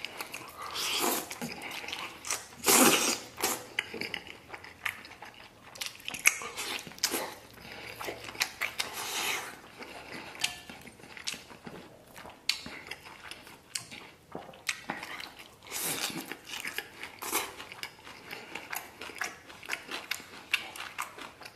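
A person biting into a thick slice of soft braised pork belly and chewing it close up. The chewing and smacking makes a run of irregular wet clicks.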